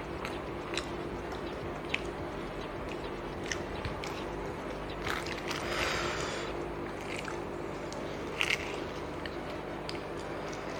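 A person chewing and biting food close to the microphone, with scattered small clicks and smacks, over a steady low hum.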